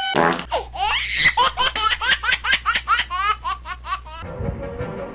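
A small child laughing in a quick run of short bursts, about four or five a second, that stops about four seconds in.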